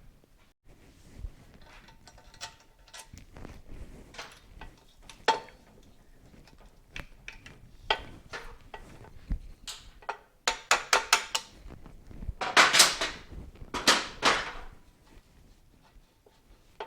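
Metal tools and motorcycle parts clinking and knocking during disassembly work. About ten seconds in comes a quick run of clicks, followed by two longer rattling scrapes of metal.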